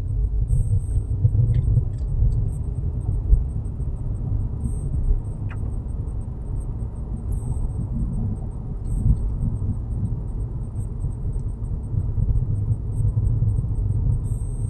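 Low, steady buzzing rumble from a Volkswagen Jetta Mk6 rolling at low speed, of the kind that comes when the brakes are pressed below about 10 km/h.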